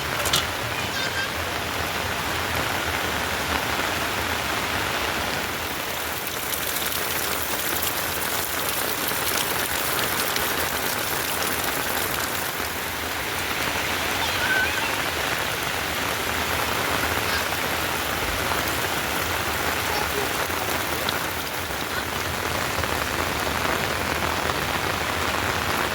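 Steady heavy rain falling, with scattered drops ticking on surfaces.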